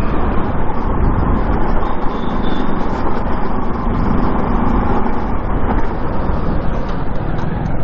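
Motorcycle being ridden on the road: steady engine and road noise.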